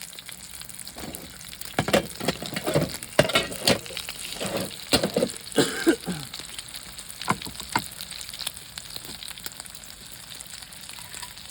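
Food sizzling in a pan while being stirred: a steady hiss with utensil scrapes and knocks against the pan, busiest in the middle.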